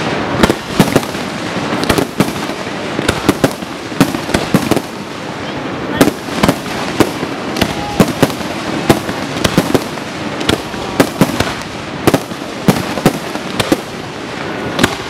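Aerial fireworks going off in a rapid barrage, with several sharp bangs a second over a continuous crackling haze.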